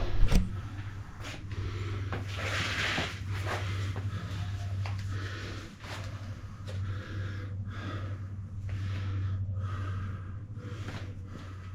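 A person breathing hard in and out, about one breath a second, winded from a hard bike ride, over a steady low hum.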